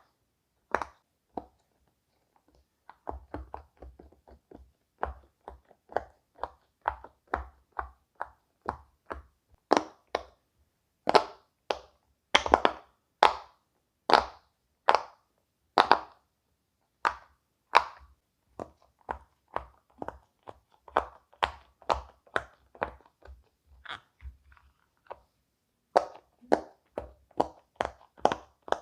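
Silicone pop-it fidget toy bubbles being pushed through one after another, each giving a short popping sound at roughly one to two a second. There is a short pause about two seconds in, and the pops are louder through the middle.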